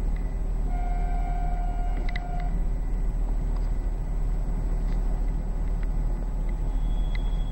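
Steady running rumble of a regional diesel railcar at speed, heard from inside the passenger cabin. About a second in, a steady pitched tone sounds for nearly two seconds, with a couple of clicks near its end.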